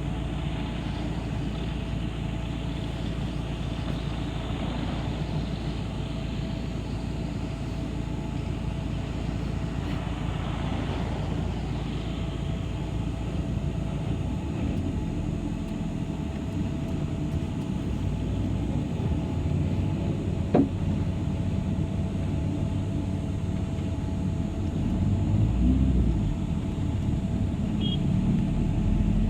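City bus running along the road, heard from inside as a steady low engine and road rumble. A single sharp click comes about two-thirds of the way through, and the rumble swells near the end.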